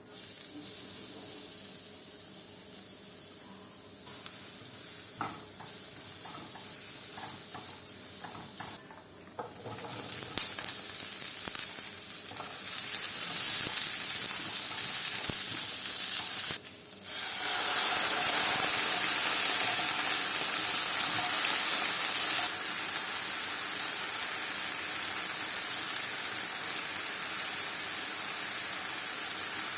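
Food sizzling and frying in a hot pan, a steady hiss that gets louder partway through, with a few light taps of a utensil early on.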